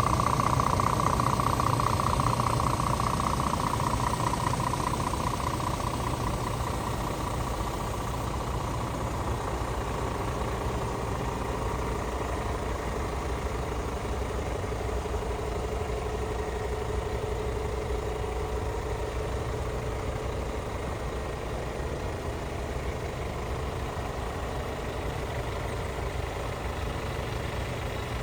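Scania R450 truck's diesel engine idling steadily, with a whine that is loudest at first and fades over the first several seconds, and a fainter, lower whine later on; the whine is the retarder hydraulics that the title names.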